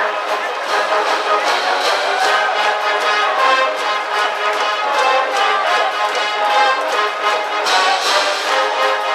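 High school brass band in the stands playing a baseball cheering tune, trumpets and trombones over a steady beat.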